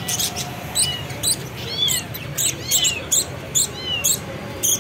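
Small cage birds chirping, a sharp high-pitched chirp about twice a second.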